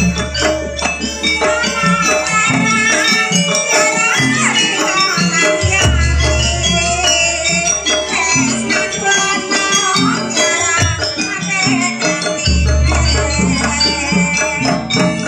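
Live jaranan music from a gamelan-style ensemble: a deep gong rings out about six seconds in and again near the end, over steady drumming, a wavering melody and a jingling rattle.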